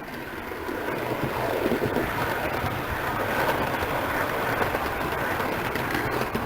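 A 00 gauge model train running on the layout close by: the steady rumble of its wheels on the track, growing louder over the first couple of seconds and then holding steady, over a low, steady hum.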